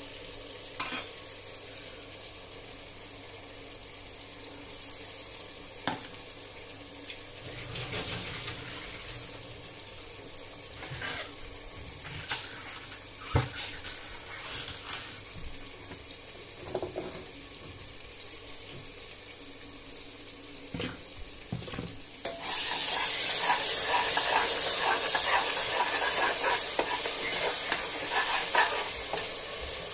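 Masala of ginger-garlic paste and onions sizzling in hot oil in an open aluminium pressure cooker, with a metal spatula stirring and now and then clinking or scraping against the pan. The sizzling gets much louder near the end.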